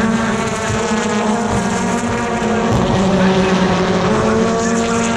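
British Touring Car Championship cars' turbocharged engines racing round the circuit: a steady engine drone from several cars whose pitch dips and climbs a couple of times as they change speed and gear.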